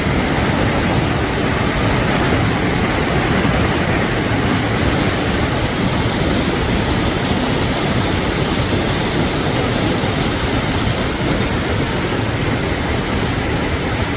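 River water rushing out from under a bridge, a loud steady roar of flowing water.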